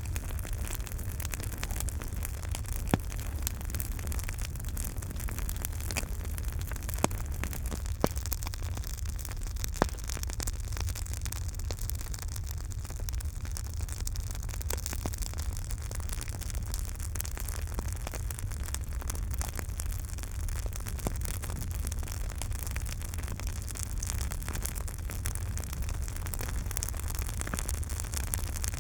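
Campfire burning: a steady low rumble and hiss of flames with frequent crackles and sharp pops of burning wood, the loudest pops about 3, 7, 8 and 10 seconds in.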